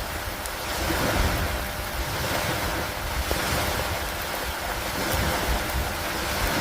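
Steady rain over lake water, heard as an even hiss with a low rumble beneath it, swelling and easing gently every couple of seconds.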